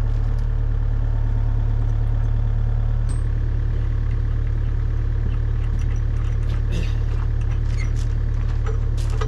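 Kubota U55 mini excavator's diesel engine running steadily, with several short metal clinks in the second half as the hydraulic hammer and its mount are worked into place.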